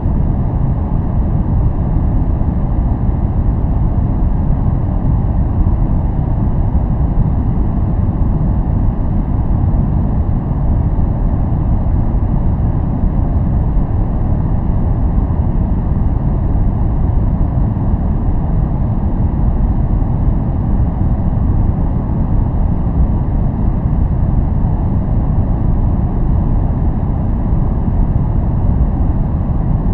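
Steady, unchanging noise played for relaxation and focus, heavy in the low end with little treble, so it sounds more like a deep, even rumble than a bright hiss.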